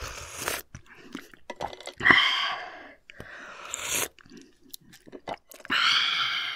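Close-miked crunchy chewing of firm raw shellfish, in several loud bursts.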